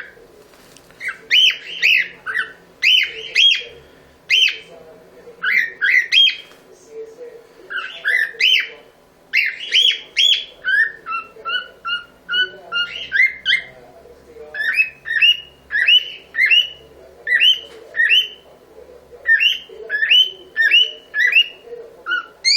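Cockatiel chirping and whistling: short calls that sweep up and down, repeated in quick runs. About halfway through there is a run of lower, level whistle notes.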